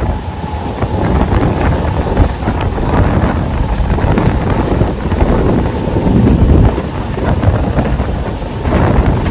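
Local electric train running along the track: a loud, steady rumble of the moving train, with wind buffeting the microphone.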